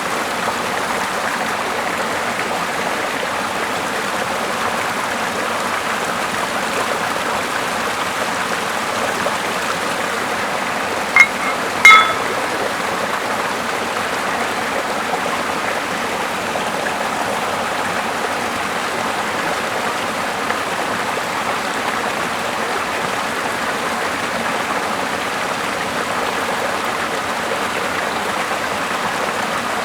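Small mossy river flowing steadily over a small waterfall, a constant rushing of water. Near the middle come two short, sharp clicks about a second apart, the loudest moments.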